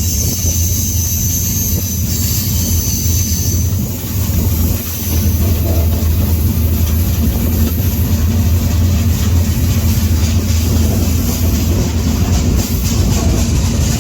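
Freight train rolling on the rails: a loud, steady low rumble of wheels and cars, with a faint high squeal during the first few seconds.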